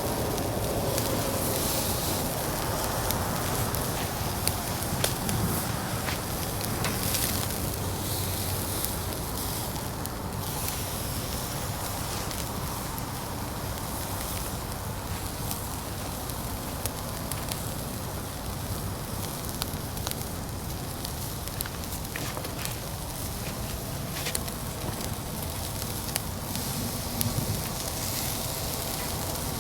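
Fire burning in a UNIFLAME Fire Grill fire pit: a steady hiss with scattered crackles and pops throughout.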